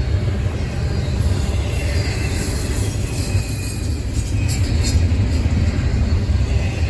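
A train passing: a steady low rumble of railcars on the track, with a few brief high-pitched metallic sounds about four to five seconds in.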